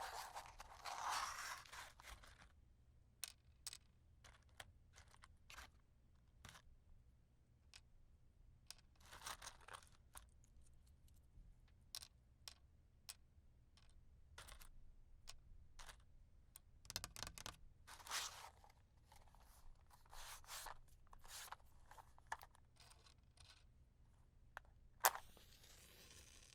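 Quiet handling of wooden matches: many light clicks and taps, with several short bursts of scratching and flaring as matches are struck. The longest burst comes at the start, and a sharp click near the end is followed by another.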